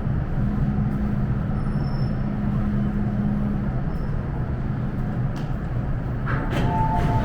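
MTR M-train standing at the platform, its on-board equipment humming steadily. Short electronic beeps start near the end.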